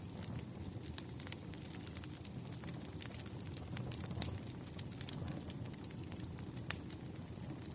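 Firewood burning: a steady low rumble of flames with frequent irregular crackles and pops, one louder pop near the end.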